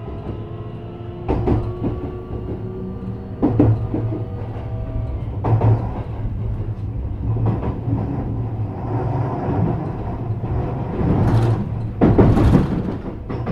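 JR West 321 series electric train running, heard on board. The traction motors whine in several tones that rise in pitch over the first few seconds as it gathers speed, and the wheels knock over rail joints about every two seconds. A louder hissing rush comes near the end.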